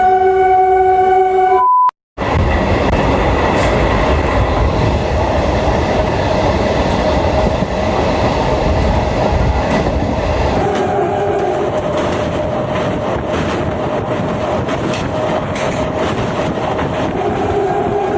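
MEMU electric multiple-unit train's horn sounding steadily for about two seconds, cut off by a brief dropout, then the train running at speed on the rails. The horn sounds again, fainter, about eleven seconds in and near the end.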